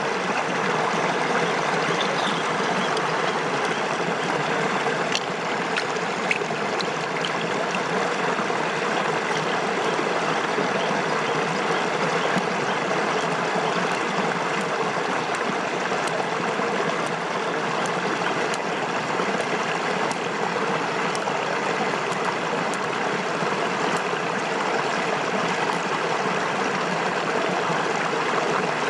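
Steady rush of flowing water, with a few faint clicks over it.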